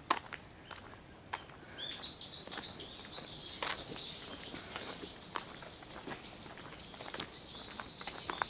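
A bird singing a long, rapid run of high, evenly repeated chirping notes, starting about two seconds in with a few louder swooping notes, with scattered faint clicks underneath.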